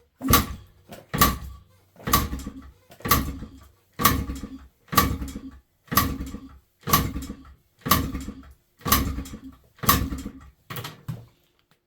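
Yamaha RT100 two-stroke single being kicked over about a dozen times, roughly once a second, for a compression test. Each kick is a short swish and clatter as the engine turns over without firing, pumping up the compression gauge.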